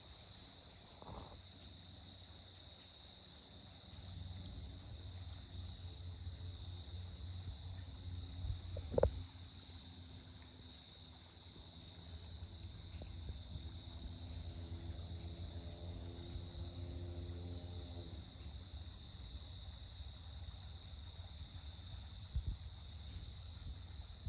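Steady, faint insect trilling, crickets or similar, over a low rumble. There is a single sharp click about nine seconds in.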